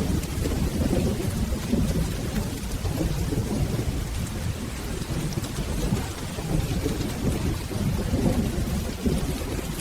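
Steady rain with a low, rolling thunder rumble underneath.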